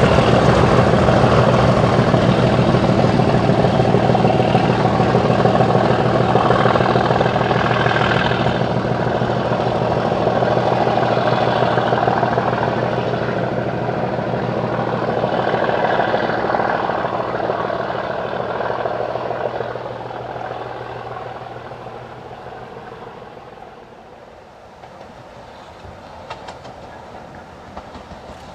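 Steam-hauled train running along the line, its sound fading steadily over about twenty seconds as it draws away.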